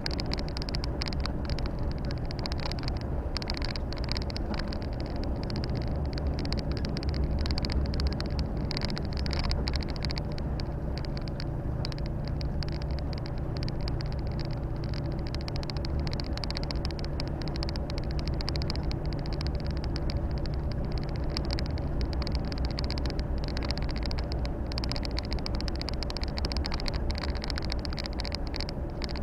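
Volvo FH 460 truck's 13-litre six-cylinder diesel running steadily under way, with tyre and road noise and a steady hiss, heard from inside the cab.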